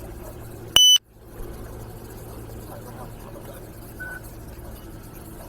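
A short, very loud high-pitched electronic beep a little under a second in, with the rest of the audio cut out around it, over a steady low vehicle hum. A much fainter short tone follows about three seconds later.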